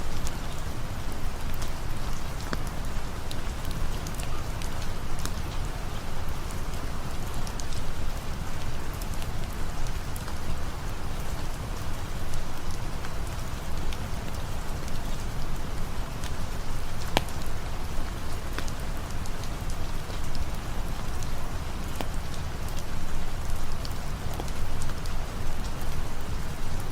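Steady rain falling, with scattered sharp drop ticks and a low rumble underneath.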